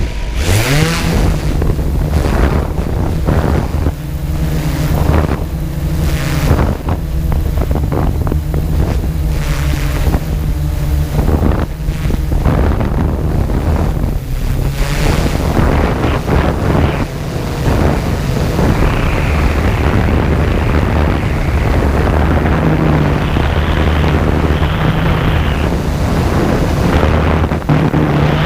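Yuneec Typhoon G drone's motors humming steadily, their pitch rising about a second in, under heavy gusts of wind buffeting the microphone.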